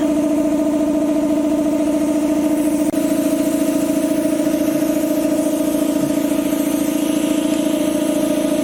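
A motor running with a steady, loud hum that holds one pitch, with a brief dip about three seconds in.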